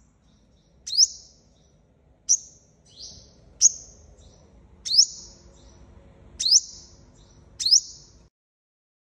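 Sunbird of the kind sold in Vietnam as the 'five-colour' sunbird, giving six sharp high calls about every second and a half. Each call is a quick rising chip with a short buzzy tail. It is a lure recording played to call wild birds in for trapping.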